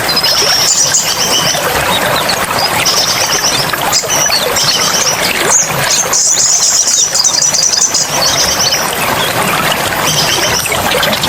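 Small songbirds singing fast, high chirping trills again and again over a steady rush of running water.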